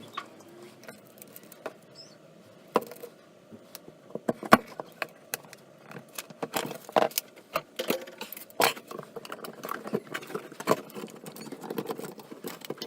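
Irregular light clicks, taps and knocks of objects being handled, a sharp knock every second or less, coming thicker after the first few seconds.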